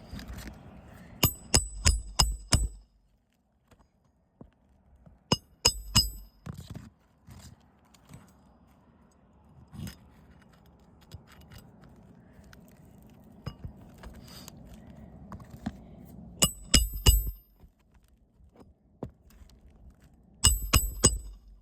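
Hammer driving roofing nails into shingles: four rounds of quick blows, three to five strikes each, every strike with a sharp metallic ring.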